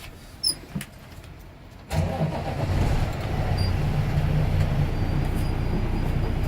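Air-braked truck's engine starting about two seconds in, after a couple of light clicks, then running at a steady idle.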